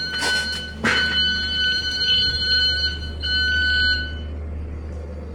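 Electronic alarm-like beeping tone, held steady for about three seconds, breaking off briefly and sounding again for about a second, over a steady low hum.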